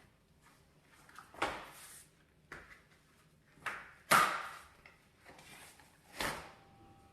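Five brief scraping knocks from handling during oven and stove cleaning. Each starts sharply and fades within a second, and the one a little past the middle is the loudest.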